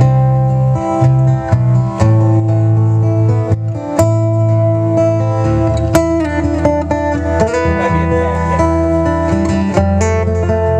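Acoustic guitar music in an instrumental break between verses, plucked notes over sustained low notes, with no singing.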